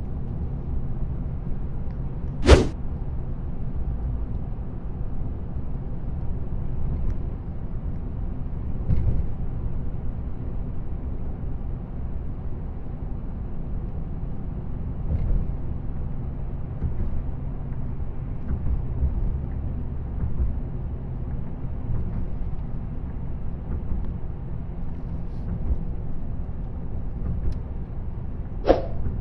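Car driving along, with a steady low rumble of road and engine noise. A sharp click stands out about two and a half seconds in, and another comes near the end.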